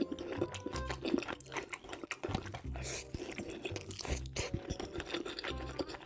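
Close-miked chewing and crunching of food, with many short crisp crunches, over background music with a low repeating beat.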